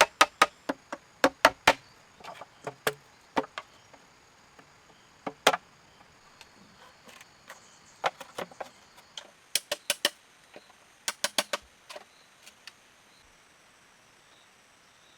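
Tool strikes on wood: sharp knocks in quick runs of several, about four or five a second, with pauses between the runs. The strikes stop a little after two-thirds of the way through.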